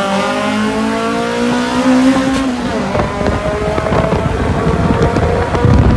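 Street-race cars accelerating hard off the launch. The engine notes climb in pitch over the first two seconds, then settle into a steadier, rougher engine sound under a lot of rushing noise.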